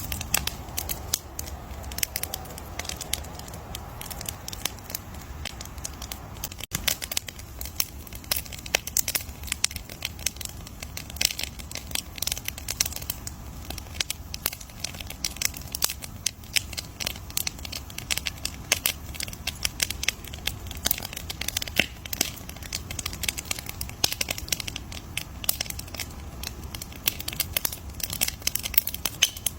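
Campfire crackling: a dense, irregular stream of sharp pops and snaps over a low, steady rumble of the flames.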